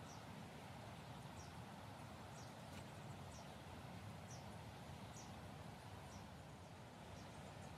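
Faint outdoor quiet with a small bird chirping over and over: short high falling notes about once a second.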